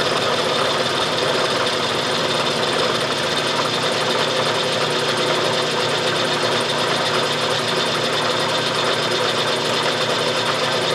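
Milling machine running steadily, its cutter taking a light finishing pass of about three thousandths of an inch along a metal bar.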